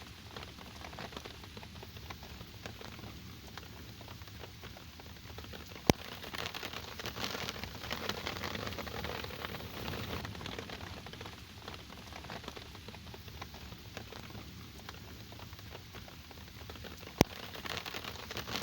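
Steady rain falling, a dense patter of drops. Two single sharp clicks, much louder than the rain, come about six seconds in and again near the end.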